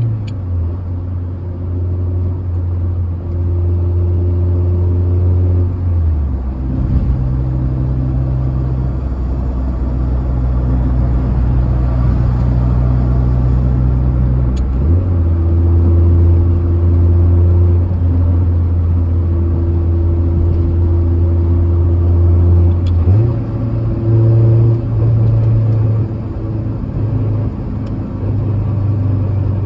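1996 Acura Integra LS's 1.8-litre four-cylinder engine running under way with road noise, heard from inside the cabin. Its low drone steps down in pitch about six seconds in, rises again about fifteen seconds in, and changes again near twenty-three seconds.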